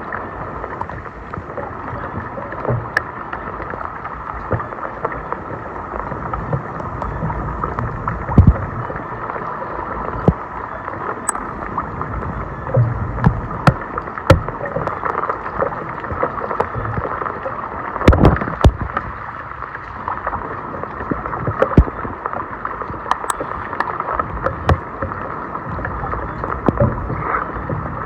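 Floodwater running and gurgling steadily, with frequent splashes and sharp knocks scattered throughout, the loudest cluster about eighteen seconds in.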